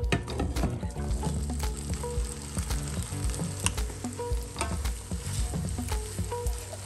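Egg, tomato and onion omelette sizzling in an oiled frying pan while a silicone spatula and a wooden spoon push and tuck its edges, with scattered clicks and scrapes of the utensils against the pan.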